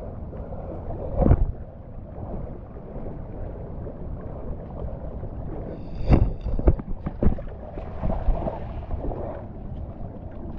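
Wind buffeting the microphone over the wash of shallow shore water, with a heavy thump about a second in and several more from about six to seven seconds.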